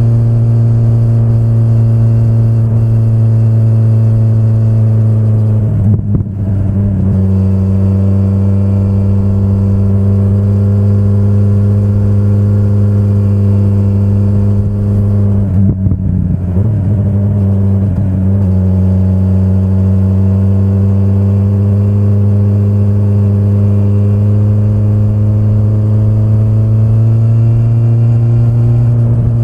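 2025 BMW S1000RR's inline-four engine running at a steady, loud pitch under way. The note breaks briefly about six seconds in and again in the middle, each time settling back at a slightly different pitch.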